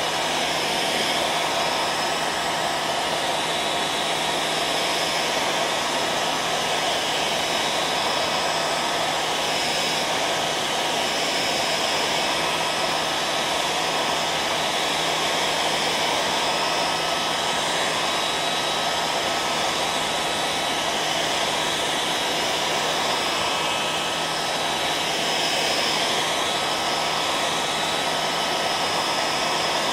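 Hair dryer running steadily: a constant rush of blown air with a steady high tone running through it.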